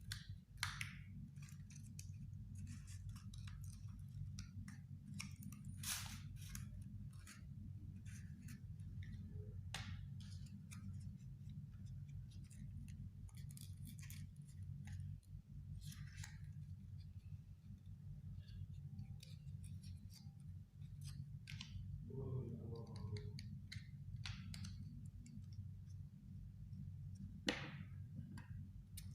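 Scissors snipping and handling the thin cardboard of a cigarette pack: scattered short snips and clicks, over a steady low hum.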